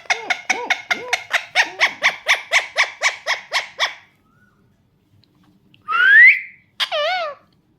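Pet parakeet calling in a fast run of short, harsh squawks, about five a second, for roughly four seconds. After a pause comes a loud rising whistle, the loudest sound, then a short wavering call.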